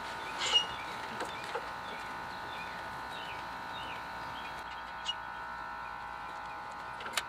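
Birds chirping faintly over a steady hum, with a sharp click about half a second in and a few fainter clicks after it.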